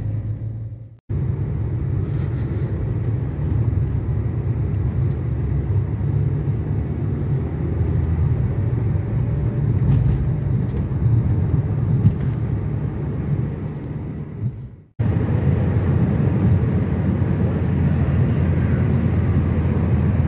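Car driving, heard from inside the cabin: steady engine and road rumble. It cuts off abruptly twice, about a second in and again about three-quarters of the way through, resuming straight away each time.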